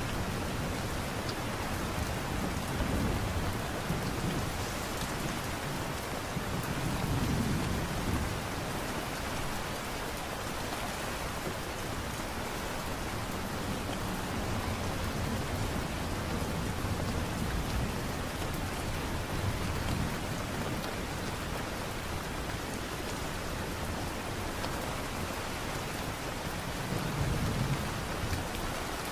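Steady light rain falling, a dense even patter, with deep low rumbles that swell and fade several times.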